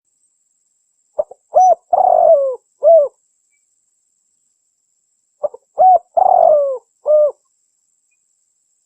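Spotted dove (tekukur) cooing: two matching phrases about four seconds apart. Each has a couple of quick short notes, a longer coo that slides down in pitch, and a final short coo.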